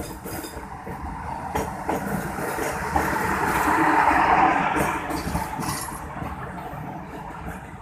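Train passing, its wheels clicking over the rail joints; the rumble swells to its loudest about halfway through, then fades away.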